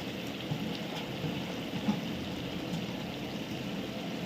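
Sliced onions and dried red chillies frying in hot oil in a large pan: a steady sizzle with faint scattered crackles.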